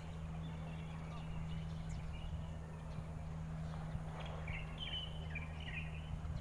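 Birds chirping in short groups of quick high notes, one group about four seconds in, over a steady low hum.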